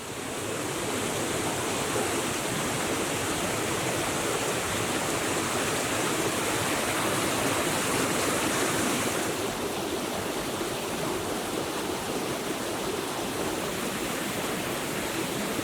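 Forest stream running, a steady rush of water; its high hiss eases about nine seconds in.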